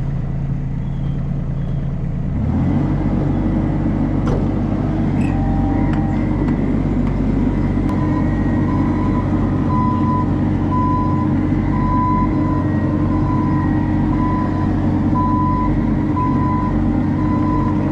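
Heavy work machine's engine running, revving up to a higher steady speed about two and a half seconds in. From around the middle a reversing alarm beeps steadily, about once a second.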